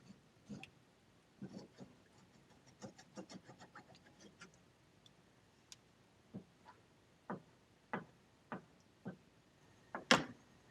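A run of light taps and clicks: a few quick ones at first, then single taps about every half second, the last one the loudest.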